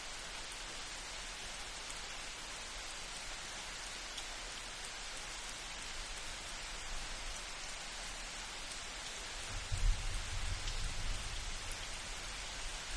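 Steady light rain falling, an even hiss with faint drop ticks. About three-quarters of the way in, a low rumble of distant thunder starts suddenly and rolls on for a few seconds.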